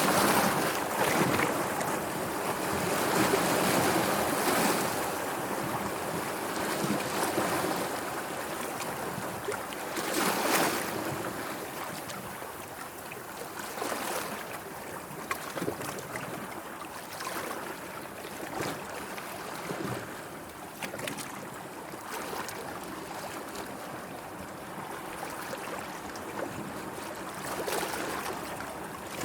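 Sea waves washing and splashing in uneven swells, with one sharper, louder wash about ten seconds in.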